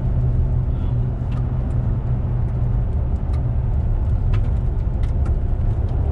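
Steady low engine and road rumble heard inside the cabin of a moving four-wheel-drive vehicle, with a few faint scattered ticks.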